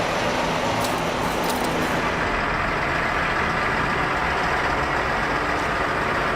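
Heavy truck engine running steadily and loudly, with dense mechanical noise.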